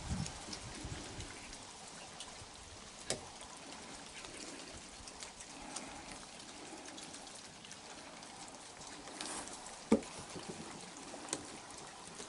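Steady rain falling, with a few short sharp knocks, the loudest about ten seconds in.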